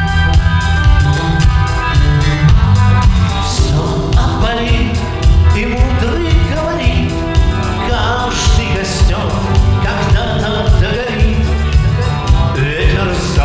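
A band playing a rock-style song with a steady beat; a singer's voice comes in about three and a half seconds in.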